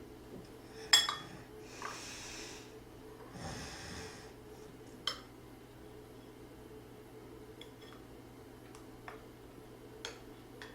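Sounds of someone eating at a table: a sharp clink of tableware about a second in, two noisy breaths or slurps, and a few lighter taps of utensils on dishes.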